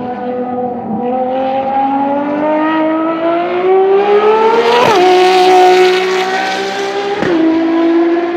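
Ferrari FXX K's V12 engine accelerating hard. Its revs climb steadily, then drop sharply twice, about five and seven seconds in, as it shifts up through the gears.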